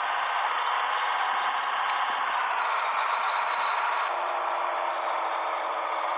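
Steady road and cab noise of a 1998 Scania 112HT truck under way, a loud even hiss with rattling; it gets a little quieter about four seconds in.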